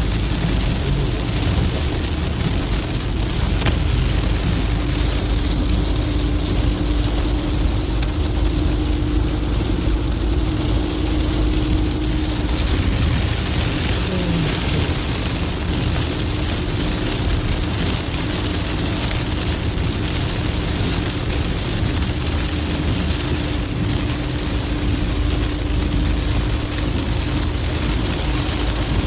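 Heavy rain hitting a car driving at highway speed, with steady road and tyre noise and a low steady hum.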